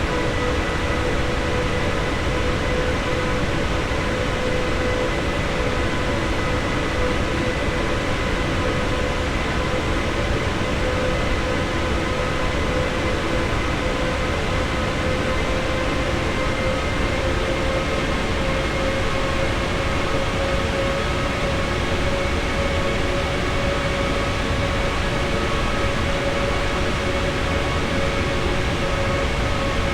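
Airbus A321neo's Pratt & Whitney PW1100G geared turbofan engines running steadily, a constant drone over a rushing noise with a few steady whining tones that rise slightly in pitch around the middle.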